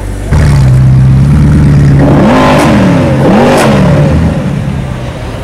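V8 sports car engine with a loud aftermarket exhaust revving in place. The engine note comes in suddenly and holds steady, then is blipped up and down twice before it falls back at about four seconds.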